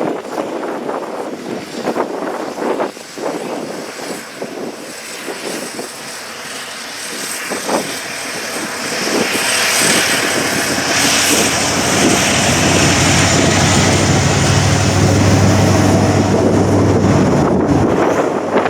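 Wind buffeting the microphone, then from about nine seconds in a steady engine drone that grows louder, with a low hum and a high whine over it.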